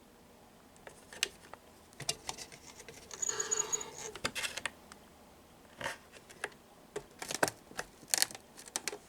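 Scattered clicks and taps with rustling, like small objects being handled, and a denser scratchy rustle lasting about a second starting around three seconds in.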